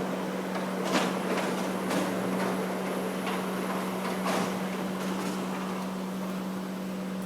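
Korean ladder-lift moving truck running its lift as the platform comes down: a steady mechanical hum holding one low pitch, with a few scattered clicks and knocks.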